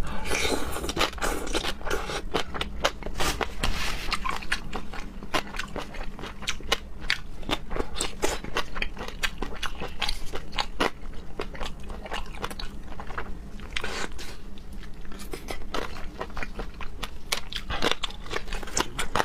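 Close-miked chewing of raw seafood, the piece just named as sea hare: a continuous run of wet mouth clicks and bites at an irregular pace.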